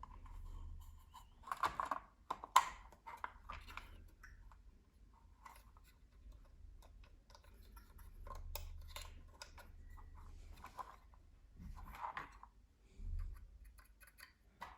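Scattered clicks, taps and light scraping from hands working with small tools and machine parts, loudest around two seconds in and again near twelve seconds.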